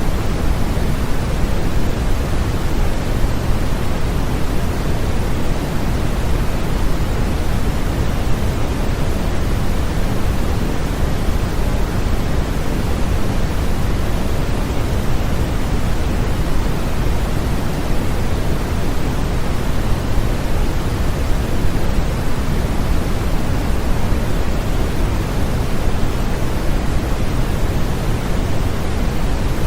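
Steady, unchanging sleep-aid noise, a continuous rushing hiss that is fuller and deeper in the low end than in the treble.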